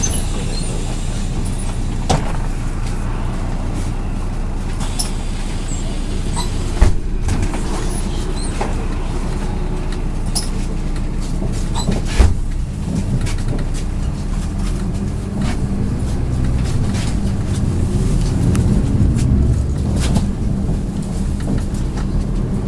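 MAZ 103.562 city bus heard from inside the cabin while driving: a steady low engine hum and road rumble, with sharp knocks about 7 and 12 seconds in. The running gets gradually louder in the later part.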